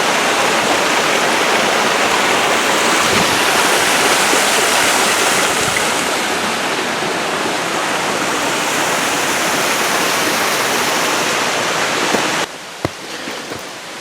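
Rushing creek water, a steady loud rush of flowing water swollen by recent rain. About twelve seconds in it cuts off abruptly, leaving a quieter hiss with a few sharp clicks.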